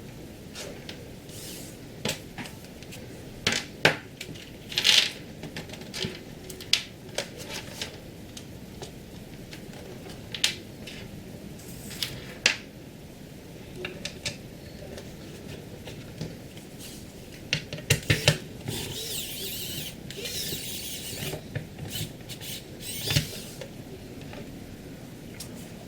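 Hand tools and small hard parts being handled on a work surface: scattered clicks and knocks, with a couple of seconds of scraping about two-thirds of the way through.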